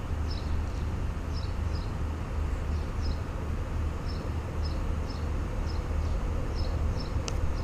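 A bird repeating short, high two-note chirps, somewhat under two a second, over a steady low rumble, with one sharp click near the end.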